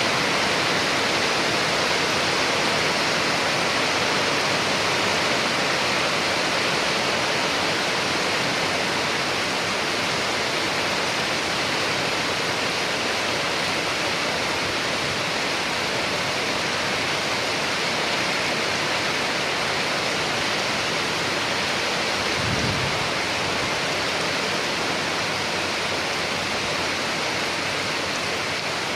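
Steady rain falling, an even hiss with no rhythm, and a short low thud about three-quarters of the way through.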